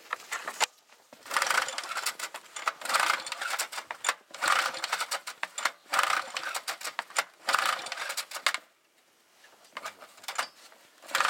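Go-kart mower's small engine turned over by its electric starter in several spells of cranking without catching, on a cold start with fresh gas just primed into the cylinder.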